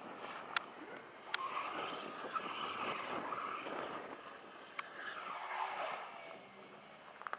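A car's engine revving up and down as it drives across packed snow and ice, with three sharp clicks along the way.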